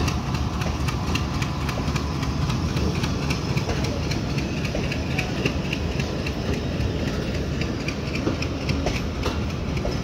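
Bangladesh Railway passenger coaches rolling past at speed: a steady rumble of steel wheels on the rails, with a continual run of quick clicks as the wheels cross rail joints.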